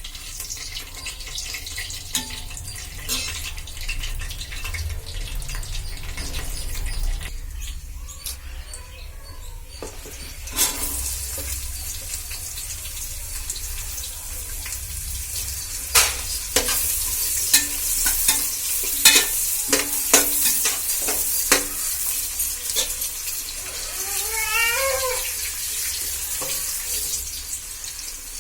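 Food sizzling as it fries in a pan, with the sharp knocks of a spoon against the pan as it is stirred, several in quick succession past the middle. Near the end, a short wavering high-pitched squeak.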